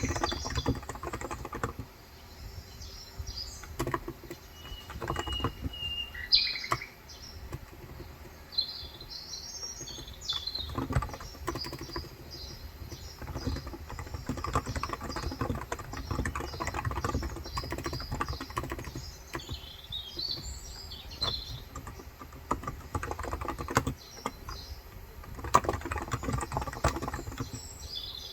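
Irregular typing on a Cox Endeavor electro-capacitive tenkeyless keyboard with 35 g switches, recorded through a phone's microphone, with busier runs of keystrokes at the start and near the end. Birds chirp throughout.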